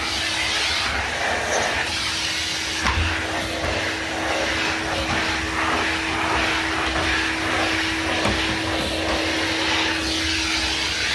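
Numatic NV250 cylinder vacuum cleaner running steadily while vacuuming: a constant motor hum over the rush of air, with a few low thuds.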